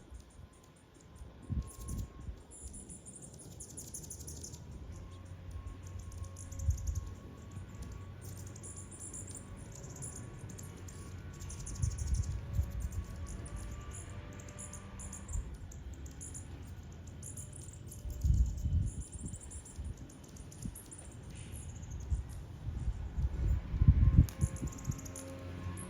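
Hummingbirds chipping: short, very high, thin notes repeated in quick runs. Several low whirring bursts come and go, about six times.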